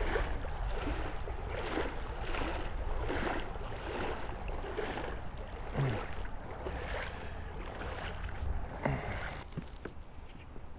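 Water sloshing and swishing in an even rhythm, about one swish every three-quarters of a second, over a steady low rumble.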